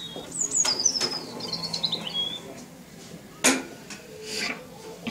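A small songbird singing one short, high, warbling phrase that falls in pitch, starting about half a second in and lasting about two seconds. A few sharp knocks, the loudest one about three and a half seconds in.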